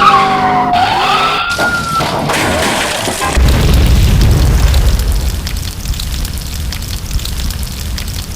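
A siren wails, its pitch falling and then rising, and cuts off about two seconds in. About three seconds in comes a loud boom, with a deep rumble that dies away slowly: an explosion sound effect.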